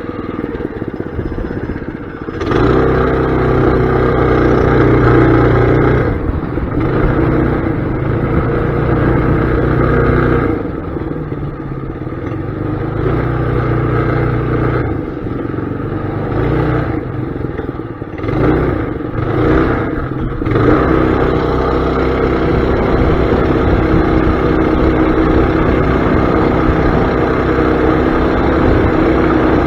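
Mini bike's small engine running with the rider aboard. It revs up and eases off several times, with brief throttle blips a little past the middle, then holds a steady speed for the last third.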